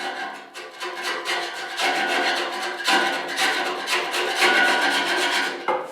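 Worn wood chisel scraping hard carbon deposit off the steel walls of a pellet stove's firebox in rapid, repeated strokes, the metal ringing.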